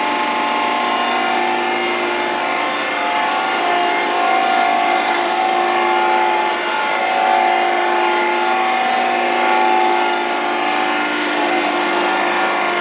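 1974 Rosa RTRC 1000 surface grinder running. The wheel spindle and drives give a steady machine whine, with tones that swell and fade every two to three seconds.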